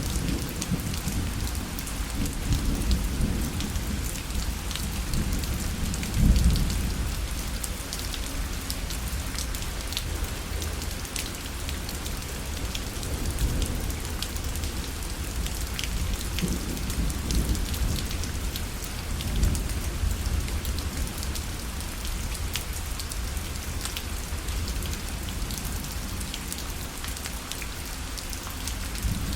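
Steady rain falling on a parasol, with many individual drops ticking on the fabric. A low rumble swells now and then underneath, loudest about six seconds in.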